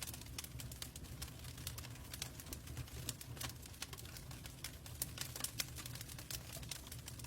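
Log fire burning in a fireplace: steady low rumble of the flames with frequent irregular crackles and pops from the burning wood.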